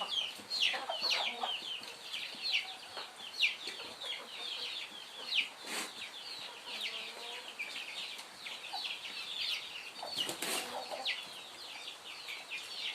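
A flock of chickens calling, with many high, short, falling peeps in a continuous chorus and a couple of brief rustles, likely wing flaps, near the middle and about two thirds through.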